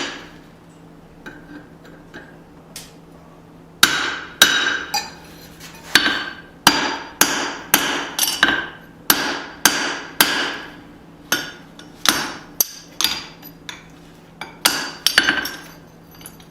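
Blacksmith's hand hammer striking hot steel on an anvil during the forging of a small hatchet. A few light taps, then about four seconds in a steady run of ringing blows, roughly two a second, with a brief pause before the last few.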